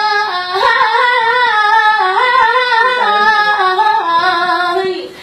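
A voice singing one long melismatic line in Iraqi style, the held notes wavering and sliding up and down, with a short break near the end.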